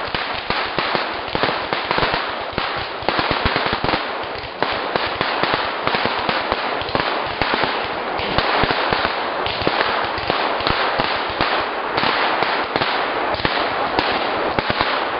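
Firecrackers going off in a long, dense, rapid string: a continuous irregular crackle of sharp pops, many each second, with no letup.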